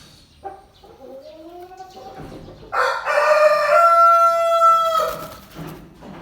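Aseel rooster crowing: one loud crow of just over two seconds, beginning about three seconds in and ending on a long held note. It follows softer rising calls in the first two seconds.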